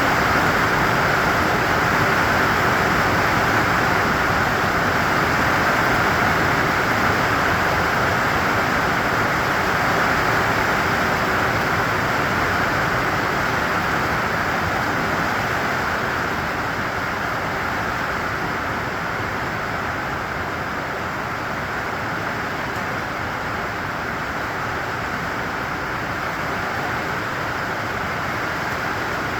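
Steady rain, an even hiss with no distinct drops or thunder, easing slightly over the last third.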